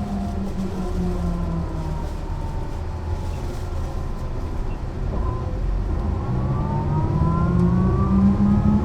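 Mercedes-Benz O 405 NÜ bus running on its six-cylinder diesel: the engine note falls for the first couple of seconds, holds low and steady, then from about six seconds in the bus accelerates, with the engine note and a higher whine rising together.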